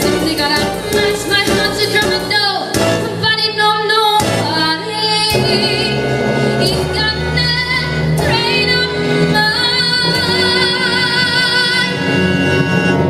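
Female vocalist singing a show tune with instrumental accompaniment, ending on a long held note with vibrato.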